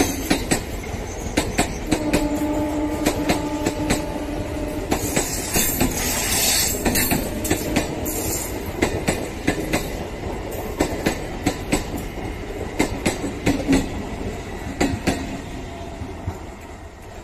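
Passenger train coaches rolling past close by, their wheels clattering over rail joints in quick pairs of clicks over a steady rumble, fading as the last coach moves away near the end. A steady tone sounds for about two seconds, starting about two seconds in.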